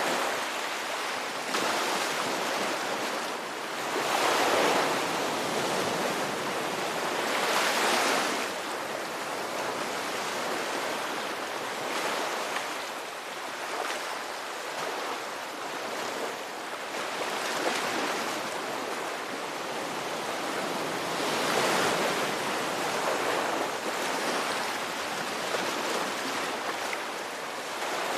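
Ocean waves breaking and washing in, a steady rushing hiss that swells as each wave comes in, several times.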